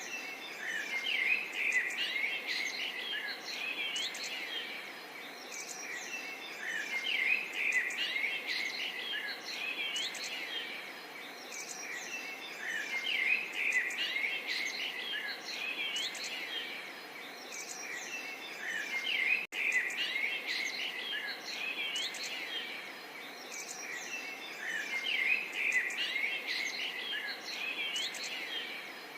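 Many birds chirping and calling at once, a dense chorus of short chirps and quick rising and falling whistles. It cuts out for an instant about two-thirds of the way through.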